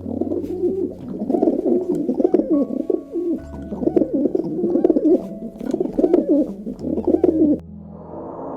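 Pigeon cooing over and over in low, warbling phrases, which stop about a second before the end.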